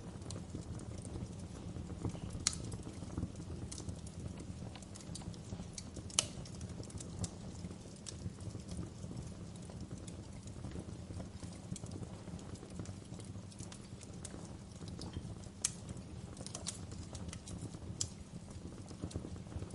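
Fireplace fire burning: a steady low rumble of flames with irregular crackles and a few sharper pops.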